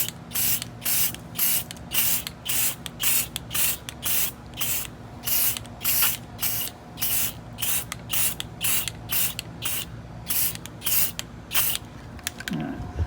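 Spray can of truck bed liner coating hissing in short bursts, about two a second, as a coat is sprayed on; the spraying stops about a second before the end.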